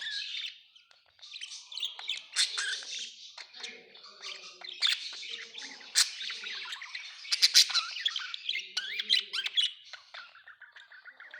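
Several budgerigars chattering, with many overlapping chirps, warbles and squawks and a brief lull about a second in.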